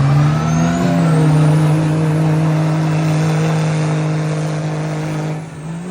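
Mega truck's engine revving up over the first second, then holding at steady high revs, and dropping off near the end.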